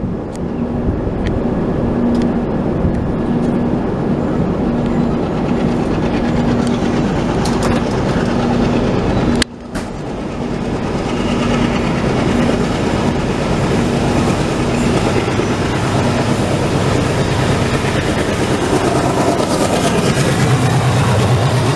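A moving express passenger train running along the track: steady wheel-and-rail noise from the coach, with a brief break about halfway through.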